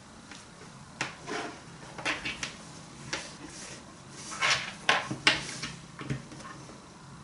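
Irregular handling noises: a series of sharp knocks, clicks and rustles, as of items and packaging being picked up and set down, the loudest knocks coming in a cluster past the middle.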